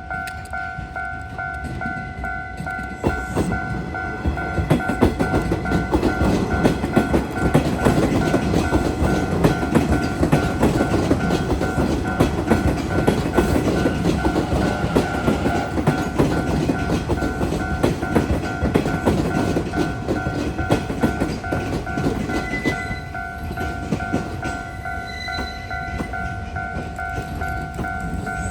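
A ten-car Kintetsu train, a 12400 series set coupled to a 3200 series set, passes through a level crossing, its wheels clattering over the rail joints. The passage builds about three seconds in and eases off after about twenty-two seconds. The level crossing warning bell rings steadily the whole time.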